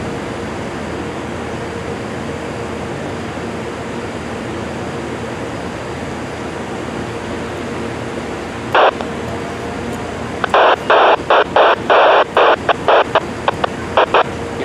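Steady background hiss, then from about nine seconds in a rapid string of short, abrupt bursts of radio sound from a railroad scanner, cutting on and off several times a second, like broken keying on the channel.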